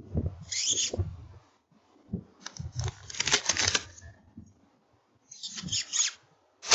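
Rustling and clicking handling noises in several short bursts, the busiest in the middle, with a sharp click near the end.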